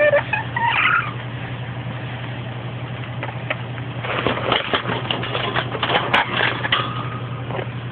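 Pet parrot working at food with its beak: scattered clicks and crunching, with a short falling whistle at the start and a brief held whistle near the end, over a steady low electrical hum.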